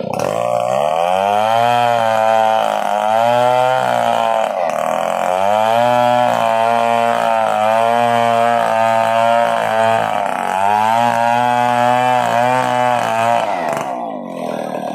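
Stihl 070 two-stroke chainsaw running hard, its pitch wavering. The engine speed sags twice and picks up again each time.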